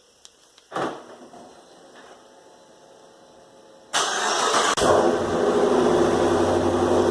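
Cold start of a 2015 Dodge Charger R/T's 5.7-litre Hemi V8: a click about a second in, then about four seconds in the starter cranks briefly, the engine catches, and it settles into a loud, steady high idle, echoing in an enclosed garage.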